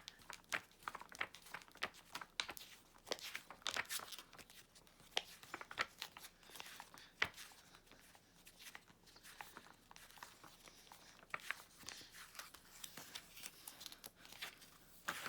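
Faint, irregular crinkling, rustling and clicking of a paper book being handled, with its pages being turned.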